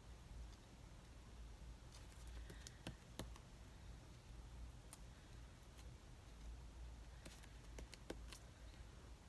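Near silence over a low room hum, broken by a few faint, light clicks and taps, bunched about two to three seconds in and again near the end: paper cutouts and craft tools being handled on a table.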